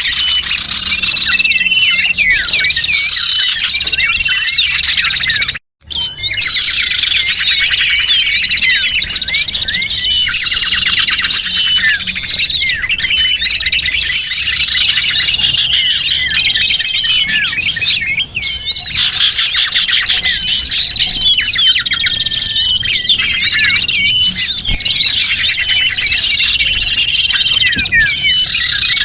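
A dense chorus of many small birds chirping and twittering over one another, the recording used as a lure call to draw small birds in. The sound cuts out completely for a moment about six seconds in.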